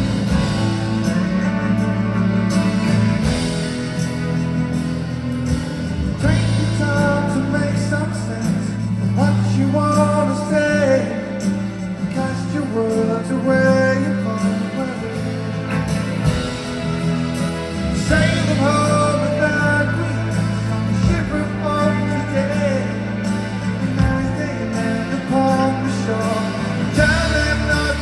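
Live rock band performing a song: a male lead vocal over guitars and bass.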